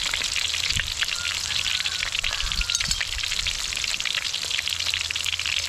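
Battered small shrimp and taro frying in hot oil: a steady, dense crackling sizzle.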